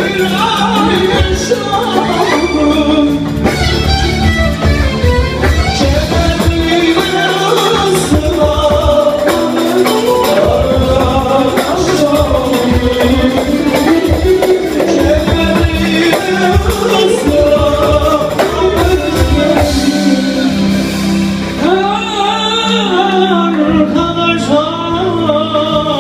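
Live band music with a man singing a melody over guitar and a steady low accompaniment, loud and continuous.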